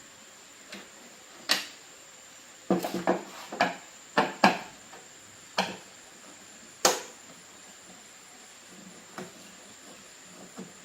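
Scattered sharp clicks and knocks of hard objects, such as tools and parts, being handled on a work surface: a single one, then a quick cluster of several, then two more spaced apart, over a faint steady high tone.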